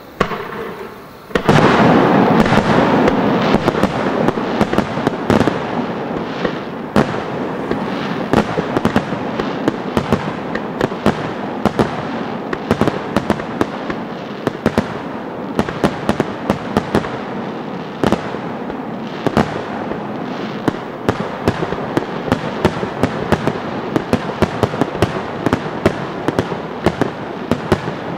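An extra-large star mine fireworks barrage: shells fired and bursting in rapid succession, with a dense, continuous rumble of booms and crackling and many sharp bangs. It starts in full force about a second and a half in.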